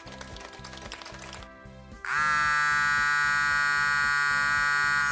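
Soft background music with a quick run of light clicks. About two seconds in, a loud, steady buzzer-like tone starts, holds level for about three seconds and cuts off abruptly.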